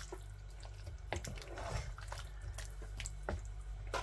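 Spoon stirring a pot of coconut-milk curry with vegetables: wet, sloppy stirring with scattered light clicks and knocks of the spoon against the pan, over a low steady hum.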